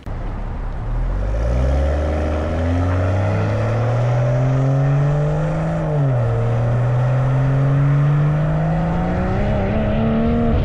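Stock exhaust of a 2020 BMW M340i's 3.0-litre turbocharged B58 inline-six under acceleration: the engine note climbs steadily, drops once about six seconds in at an upshift, then climbs again.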